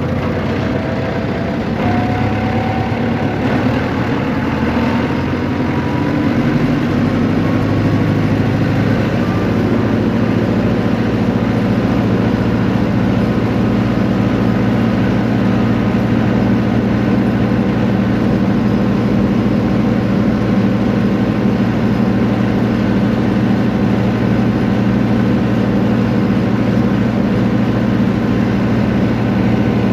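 A vehicle engine running: it rises in pitch over the first several seconds, then holds a steady hum.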